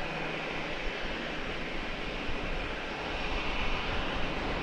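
Steady rushing noise of jet airliner engines across the airfield, mixed with wind on the microphone. It grows a little louder near the end.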